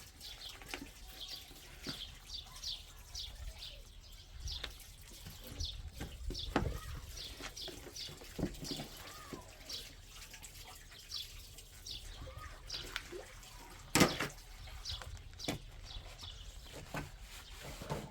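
Small birds chirping over and over in short, high, falling calls, with scattered clicks and knocks; one sharp knock stands out about fourteen seconds in.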